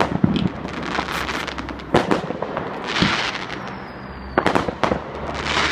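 Fireworks going off: a run of sharp bangs and crackles with hissing bursts, and a faint whistle near the middle.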